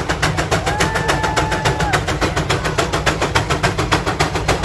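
Steam traction engine working hard, its exhaust chuffing in a fast, even beat of about six sharp puffs a second over a low rumble. A thin steady tone sounds briefly about a second in.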